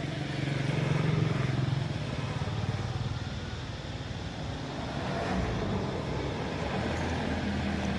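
A motor vehicle engine running, with a steady low hum that grows louder about a second in, eases off, and swells again around five seconds in.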